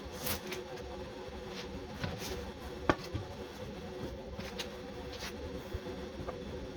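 Scattered faint clicks and knocks, with one sharper click about three seconds in, over a steady low hum.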